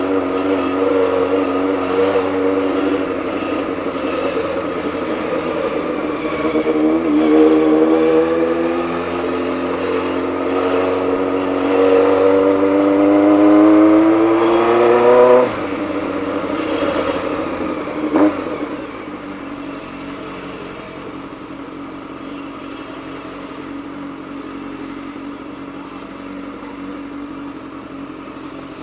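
Honda CBX 750's air-cooled inline-four engine pulling with its pitch climbing twice as it accelerates, then the throttle closes abruptly about halfway through. After a brief click it runs on quieter and steady.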